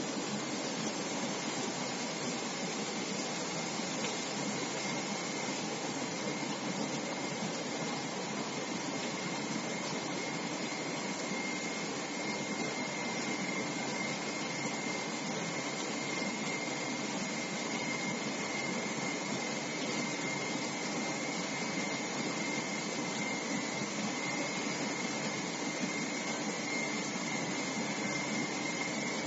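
CNC machine tool running: a steady hiss with a faint high whine that grows stronger about halfway through.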